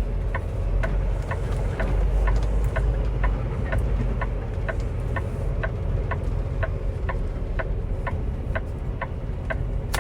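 Semi truck's diesel engine running at low speed, heard from inside the cab, with a steady ticking about two to three times a second.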